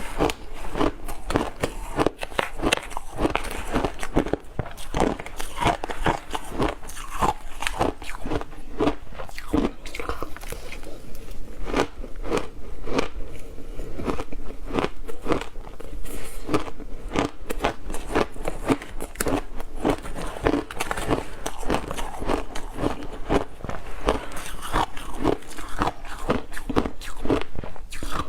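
Ice being bitten and chewed: a continuous run of sharp, irregular crunches, several a second.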